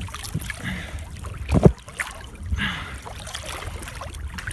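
Sea water sloshing and gurgling around a swimmer's handheld camera at the surface, with one louder low surge about one and a half seconds in.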